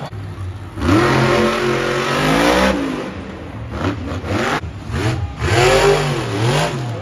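Monster truck's supercharged big-block V8 revving hard: a steep climb about a second in, held then falling off near three seconds, a few short throttle blips, and another hard rev with a wavering pitch near the end.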